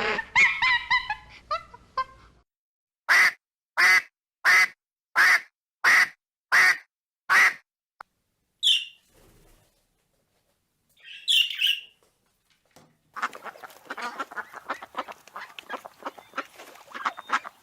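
A duck quacking seven times in a steady, even rhythm. Two short high calls follow, then a busy run of many overlapping bird calls in the last few seconds.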